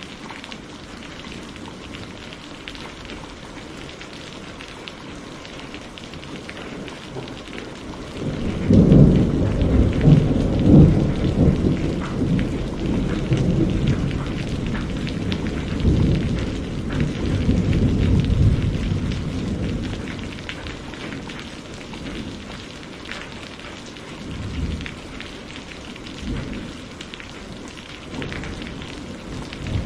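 Steady rain hiss with a long peal of thunder that breaks in suddenly about a third of the way through, rumbling for about ten seconds before fading back to the rain, with smaller rumbles near the end.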